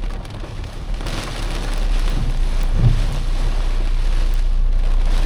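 Rain hitting a moving car over the steady low rumble of the road, growing louder about two seconds in.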